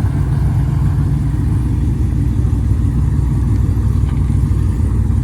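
A car engine running steadily, a loud low rumble that holds an even pitch without revving.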